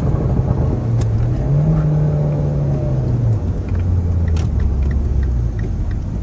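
2012 Mini Cooper Coupe John Cooper Works' turbocharged 1.6-litre four-cylinder running, heard from inside the cabin: the revs climb, then drop in steps in the second half as the manual gearbox is shifted up. A sharp click comes about four and a half seconds in.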